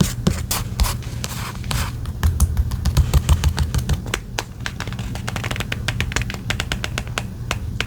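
Irregular quick, light clicks and taps of paper and stationery being handled while decorating a journal page, over a steady low hum.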